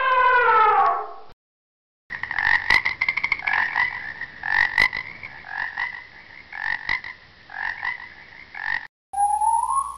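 Frog croaking: a run of rattling, pulsed calls for about seven seconds. Before it, a horn-like call falling in pitch ends about a second in, and near the end a rising whistle-like tone begins.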